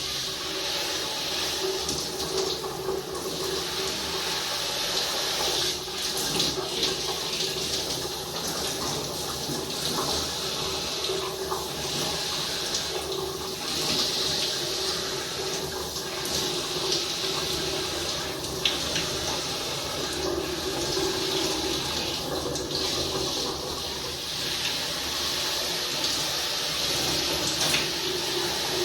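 Running water from a tap or shower, steady but changing in strength every second or two as hair is rinsed under it, with a steady hum underneath.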